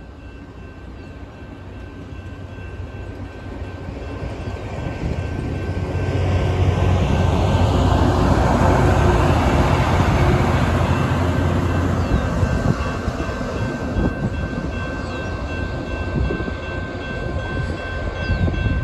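A LORAM rail grinder train rolling past. Its diesel power car's low engine rumble builds, is loudest about a third to halfway in as the power car passes, then eases off as the train moves away, with wheels and cars clattering over the rail.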